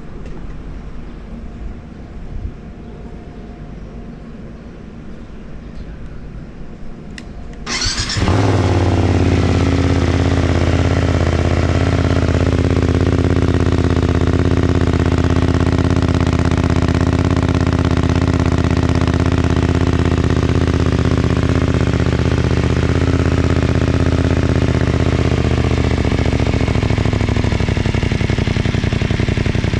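BMW F900R parallel-twin motorcycle engine with an Arrow aftermarket exhaust, started about eight seconds in and then idling steadily through the exhaust. The idle steps down slightly near the end.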